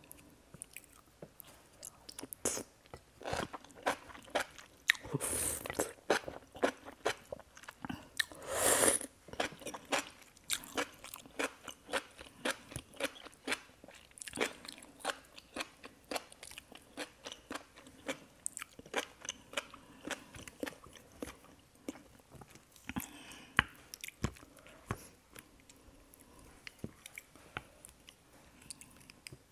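Close-up eating sounds: boiled enoki mushrooms in thick gochujang sauce being chewed, with many short wet, clicky mouth sounds throughout. Two longer, louder sounds come about five and nine seconds in.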